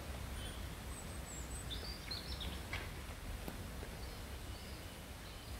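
Steady low outdoor rumble with a few faint bird chirps, most of them about two seconds in.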